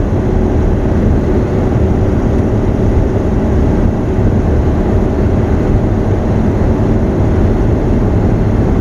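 Ford Ranger's Perkins four-cylinder diesel pulling steadily at about 45 mph, heard from inside the cab with road noise.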